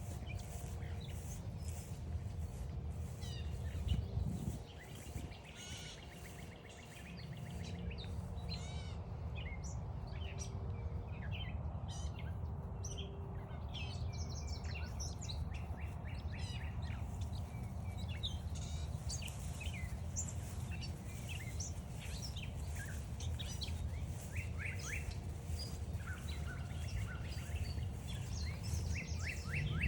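Several songbirds singing and chirping in woodland, with many short calls and trills overlapping. A steady low rumble runs underneath and dips briefly about five seconds in.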